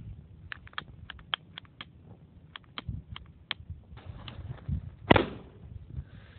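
A series of small sharp clicks and taps, irregular and a few a second, with low knocks under them and one louder knock about five seconds in, like objects being handled and set down.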